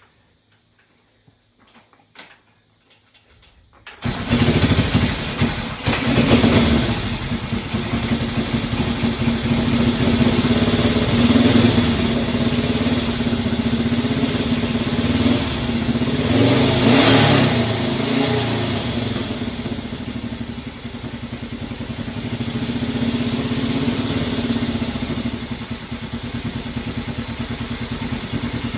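Honda CL77 305 air-cooled parallel-twin motorcycle engine cold-started with little choke after sitting two weeks: a few faint clicks, then it catches about four seconds in and runs, revved up a few times before settling to a steady idle.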